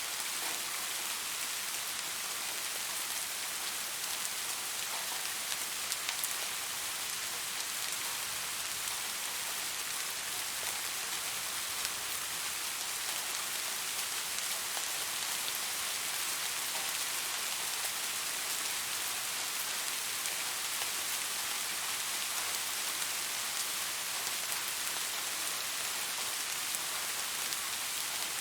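Steady rain falling, an even hiss of many drops with occasional individual drop ticks.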